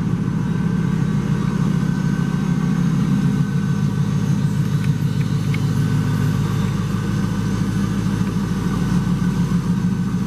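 1999 Pontiac Trans Am WS6's LS1 V8 idling steadily through its aftermarket exhaust, a low, even rumble.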